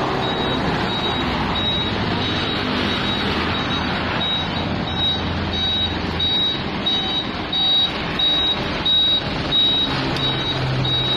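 Truck reversing alarm beeping again and again in a high, evenly spaced tone over the truck's running engine as it backs up.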